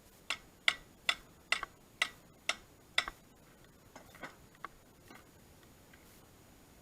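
A run of sharp clicks or taps, about seven at a steady two a second, followed by a few fainter ones.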